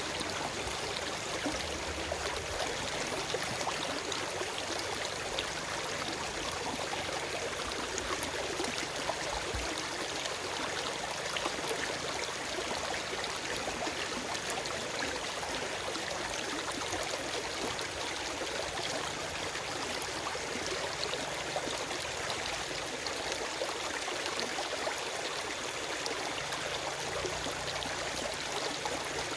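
Forest stream running over rocks, a steady rush of water with small trickles and gurgles.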